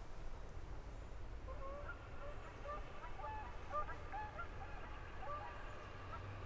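A flock of waterfowl calling in many short, overlapping honk-like notes, thickest in the middle of the stretch, over a steady low rumble.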